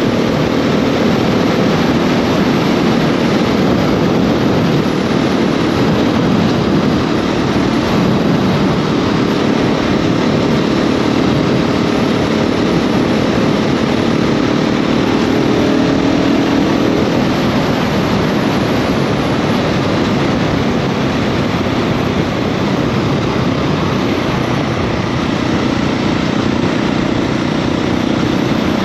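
KTM 690 SMC R's single-cylinder engine running steadily under way, with wind rush over the microphone. The engine note rises slightly and then drops back about halfway through.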